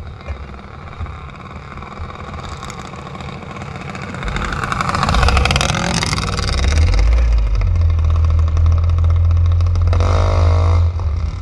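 A vehicle engine running, swelling sharply about four seconds in and staying loud, then easing off near the end.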